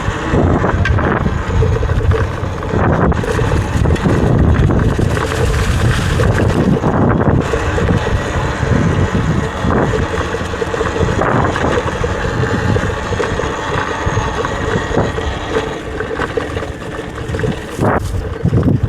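Wind buffeting the microphone of a riding Talaria electric dirt bike, with a faint steady hum from the moving bike under it.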